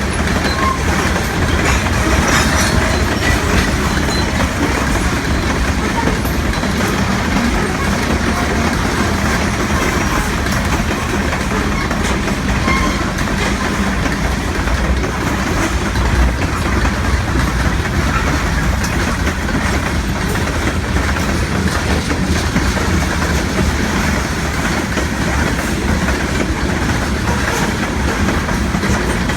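Maryland Midland Railway freight train rolling past, the steady, loud noise of its wheels running on the rails.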